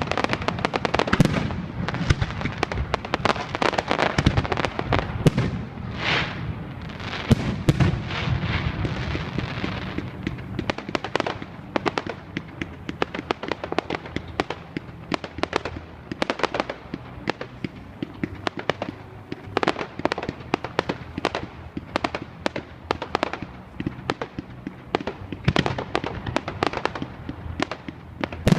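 Fireworks going off in rapid succession: a dense run of bangs and crackling for the first ten seconds or so, then a steady string of separate bangs.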